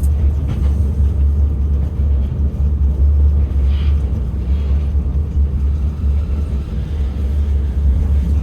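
Moscow monorail car running between stations, heard from inside the car as a steady low rumble.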